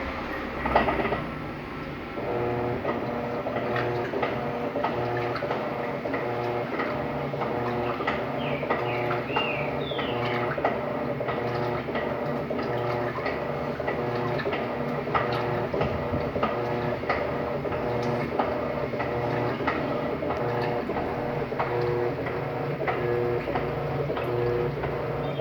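Electrolux LTD13 washing machine running its first rinse: the motor hums in a steady, regular pulsing rhythm that starts about two seconds in, just after a knock.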